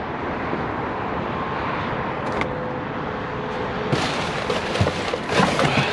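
Steady traffic noise, with rustling and clattering from about four seconds in as trash is moved about in a dumpster.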